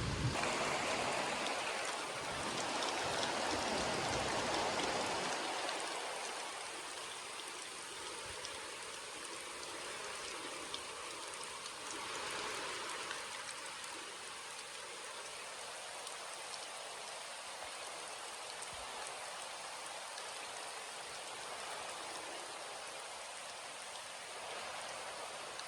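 Steady rain falling and pattering on surfaces, heavier for the first five or six seconds before settling into an even, lighter downpour.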